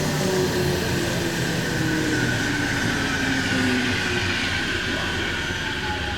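A JR Central 313 series electric train pulling into a station and slowing, over rumbling wheel and rail noise. Several whining tones from the motors glide slowly down in pitch as it brakes, one dropping faster near the end.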